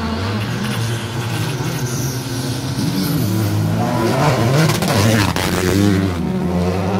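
Rally car engine revving hard, its pitch climbing and dropping repeatedly with gear changes. It grows louder and is loudest about four to six seconds in.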